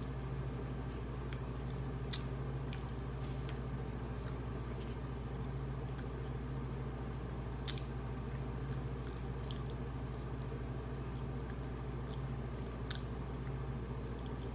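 A person chewing and biting into baked barbecue-sauced chicken wings, with soft wet squishing mouth sounds and a few sharp clicks, over a steady low hum.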